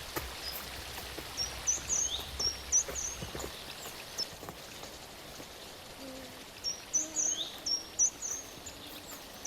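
A songbird singing two short phrases of quick, high chirps, a few seconds apart, over steady outdoor background noise.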